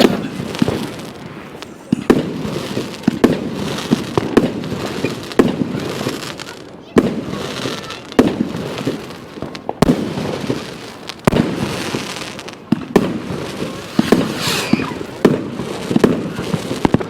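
Fireworks display: a steady run of sharp bangs, about one a second, each followed by a rumbling echo as the shells burst overhead.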